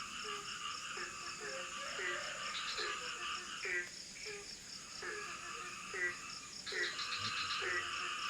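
A chorus of frogs calling, with short, low croaks repeating irregularly about once or twice a second. Behind them is a constant chirring of insects with a steady high whine.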